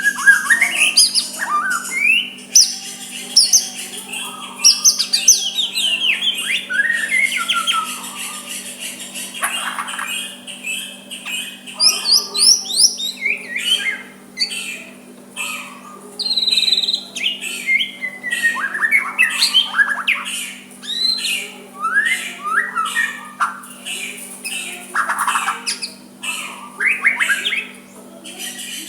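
White-rumped shama singing a continuous, varied song of quick whistled glides, chirps and harsher squawking notes, with short pauses between phrases.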